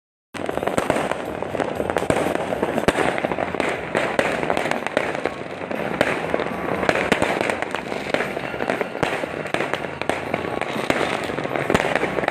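A dense, continuous barrage of fireworks and firecrackers: many overlapping bangs and cracks with a constant crackle under them. It starts abruptly a third of a second in, after a moment of dead silence.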